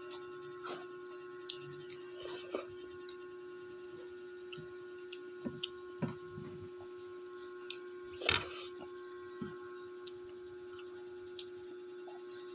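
Close-up chewing and mouth noises of someone eating, with scattered small clicks and a louder smack about eight seconds in, over a steady hum.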